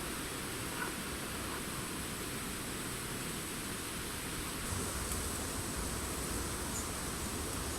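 Steady hiss of wind rustling through forest leaves. A little past halfway, a low rumble of wind buffeting the microphone sets in.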